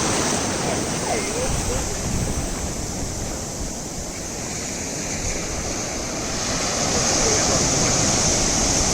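Sea surf washing onto a beach, a steady rush that grows louder about six seconds in.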